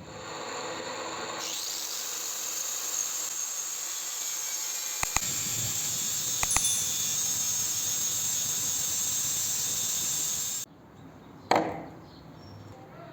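A high-pitched power tool running steadily on metal, with a few light clicks partway through. It stops suddenly about ten and a half seconds in, and a sharp knock follows about a second later.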